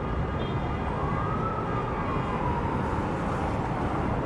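Steady city street traffic noise, with a faint siren whose pitch rises and then falls once, starting about a second in.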